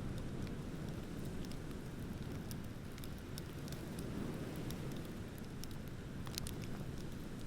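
Wood bonfire crackling, with frequent small sharp pops scattered throughout, over a steady low rush.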